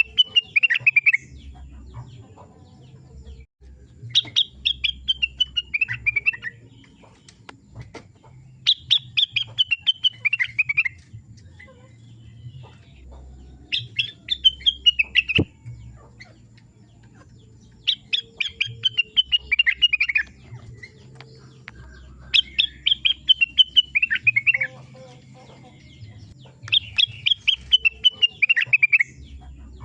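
A rengganis songbird singing: a rapid trill of notes sliding down in pitch, about two seconds long, repeated every four to five seconds.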